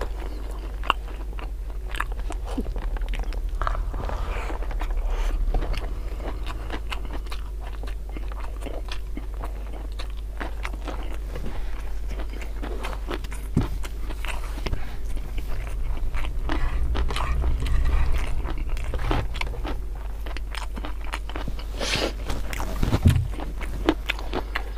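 Close-miked eating sounds: a man chewing and crunching mouthfuls of rice and beef tongue in chili sauce with raw vegetables, eaten by hand, with many small irregular wet clicks and crunches. A low steady hum runs underneath.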